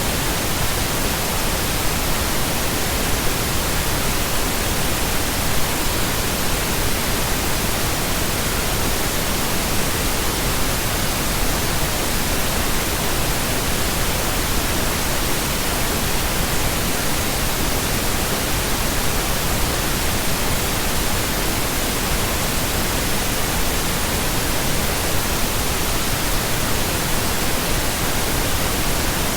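Steady pink noise: an even, unbroken hiss spread over the whole range of pitch, with no events or changes.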